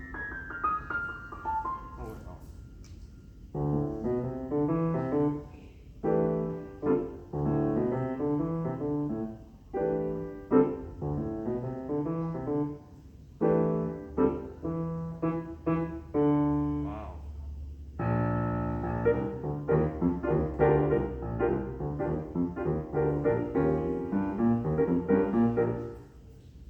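Steinway Model D nine-foot concert grand piano being played in phrases of chords separated by short pauses. The music stops and the notes die away near the end.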